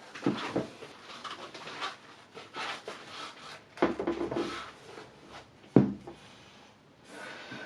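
Irregular knocks, clicks and rustling of parts being handled on a workbench, with a sharp knock about four seconds in and a louder one near six seconds.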